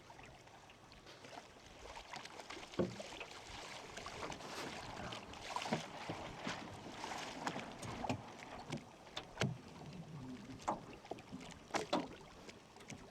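Small plywood dinghy on the water: water splashing and lapping at the hull, with irregular light knocks and clicks about once a second.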